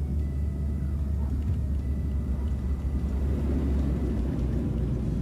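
Cabin noise of a small passenger plane rolling on the runway just after touchdown: a loud, steady low rumble with a faint steady high whine.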